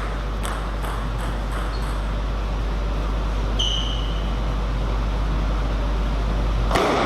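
Steady low hum of a table tennis hall between rallies, with a few faint ball clicks, a short high squeak about three and a half seconds in, and a sharp knock of the celluloid ball near the end as play resumes.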